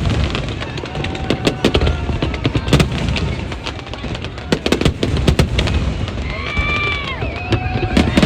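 Aerial fireworks going off: rapid sharp cracks and booms one after another over a continuous low rumble.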